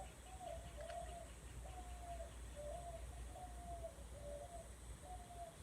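A bird calling in a steady series of short, evenly pitched cooing notes, about nine of them, a few dipping at the end, over a faint low hum.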